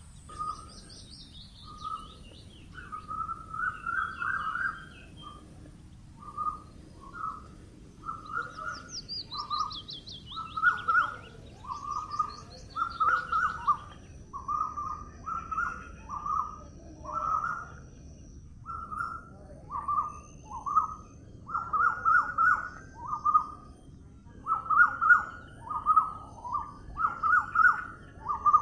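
Birds singing: one bird repeats short, fairly low chirping notes about once a second, while a second bird gives a high trill falling in pitch near the start and again about ten seconds in, over a faint low background rumble.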